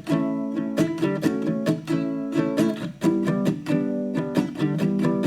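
Background music: plucked acoustic guitar playing a melody in a steady rhythm of picked notes.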